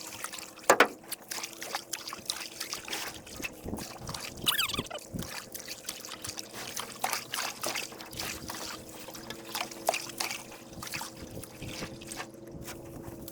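Canoe paddles dipping and dripping water beside the hull, with scattered light knocks and taps on the canoe over a faint steady hum.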